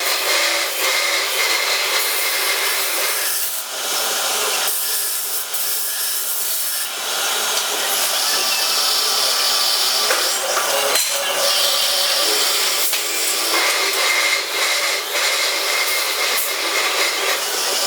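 A workshop tool cutting into a small metal engine part, making a steady, noisy scraping sound with a few irregular knocks.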